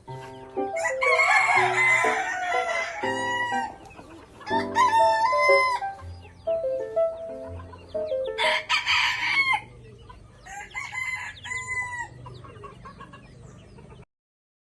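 Chickens calling loudly in four bursts, some drawn-out like crowing, over background music with a stepping melody. The sound cuts off abruptly near the end.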